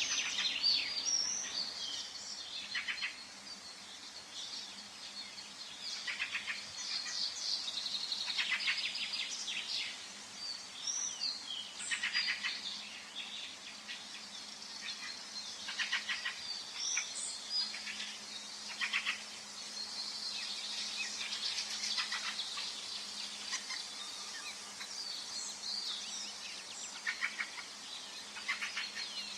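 Forest birdsong: several birds calling and trilling in overlapping short phrases and chirps, over a faint steady background hiss.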